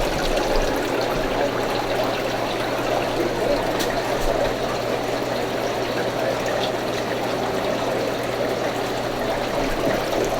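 Steady trickling and splashing of water circulating through aquarium tank filters, with a steady low hum underneath.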